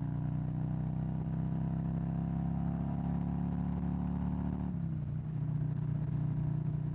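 Harley-Davidson Road Glide's Milwaukee-Eight V-twin engine running on the road, its pitch climbing slowly, then dropping about five seconds in and holding steady.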